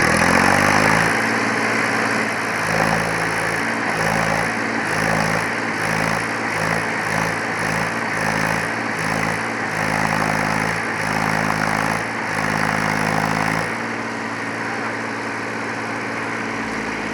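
Eicher 380 tractor's diesel engine revving up in the first second, then running hard at high revs with a pulsing, uneven drone. It eases off a little about fourteen seconds in.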